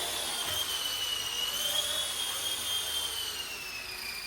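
RC ERA C138 Bell 206 micro electric RC helicopter in a hover, its motor and rotors making a high whine that wavers slightly and then slides gradually lower in pitch toward the end.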